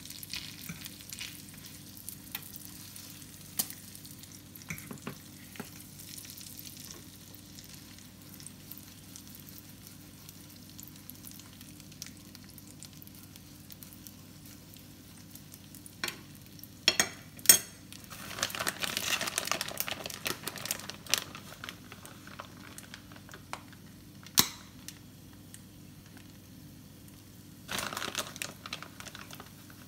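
Slices of beef rib sizzling steadily in a nonstick frying pan, with scattered small clicks from a fork and the pan. Past the middle come two sharp clicks, then a few seconds of plastic-bag crinkling and rustling as shredded cheese is sprinkled from the bag onto bread in the pan; the bag rustles again briefly near the end.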